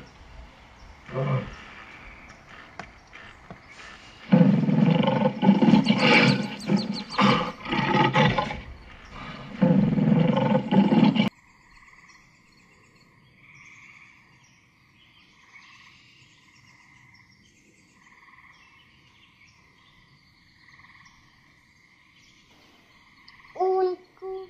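Male lion roaring: a couple of short low calls, then a loud bout of deep, pulsing roars and grunts lasting about seven seconds that cuts off abruptly. After the cut comes quiet outdoor ambience with a faint bird call repeating every second or so.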